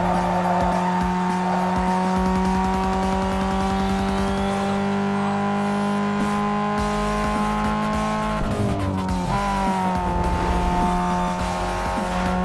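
Renault Mégane 2.0 turbo engine held at steady high revs, with a sustained whining tone. The revs dip about eight and a half seconds in, then level off again.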